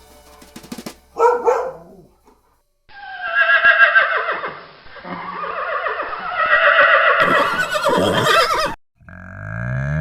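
A dog barks once, then a horse whinnies in a long, loud call that wavers in pitch for about six seconds.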